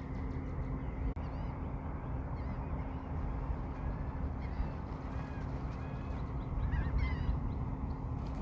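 Seabirds calling in a loose chorus: many short, rising-and-falling cries, busiest a little past the middle. Under them runs a steady low rumble with a faint constant hum.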